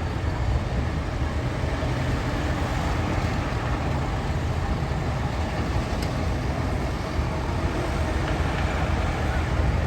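Steady low rumble of Model T cars' engines running as the cars arrive.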